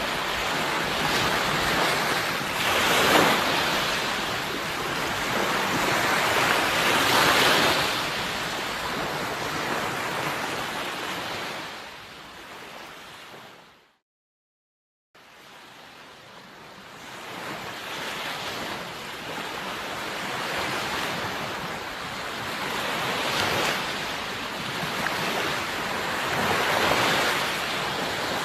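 Sea waves surging and washing on the shore, a steady rush that swells and ebbs with each wave. About halfway through the sound fades out to a second of silence, then the waves fade back in.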